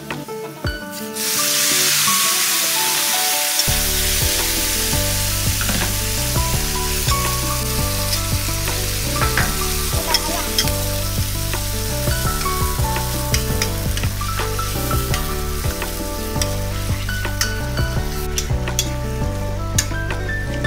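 Garlic and onion frying in hot oil in a wok, a loud steady sizzle that starts about a second in, stirred with a metal spatula that clinks against the pan. Background music with a bass line plays underneath, its bass coming in a few seconds in.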